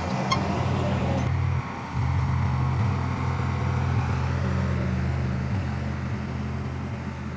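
Heavy diesel engine of earthmoving machinery running steadily, dipping briefly about a second and a half in, then easing slowly quieter.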